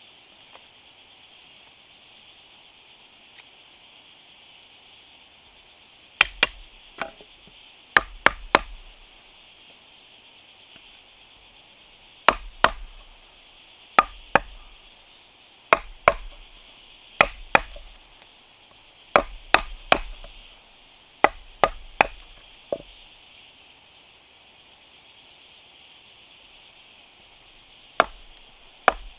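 Sharp wooden knocks of a tool striking wood, in clusters of two or three every couple of seconds. They start about six seconds in and pause for a few seconds near the end before resuming, over a steady high hiss.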